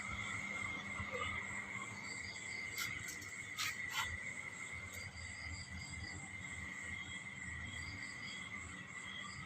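Chorus of chirping insects: a steady high-pitched trill with short rhythmic runs of pulses over it, and a few faint clicks.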